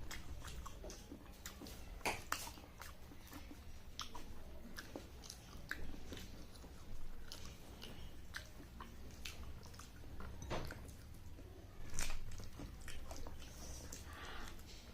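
Close-miked eating sounds: chewing and wet mouth clicks and smacks, coming irregularly, with a louder cluster about twelve seconds in.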